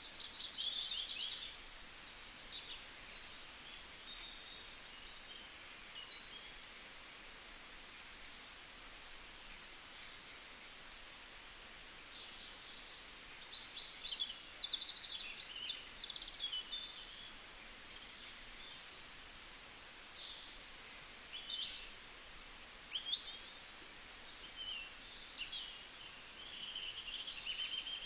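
Small birds chirping: many short, high calls, some sliding up or down in pitch, scattered irregularly throughout over a faint steady hiss.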